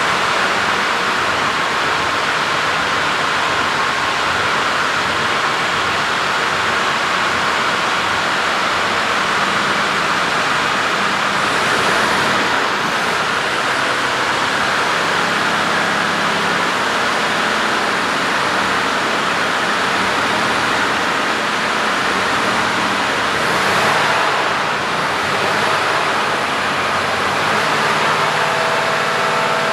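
Mercedes-Benz Actros 2545 tractor unit's Euro 6 straight-six diesel running at a steady idle, under a loud, even hiss.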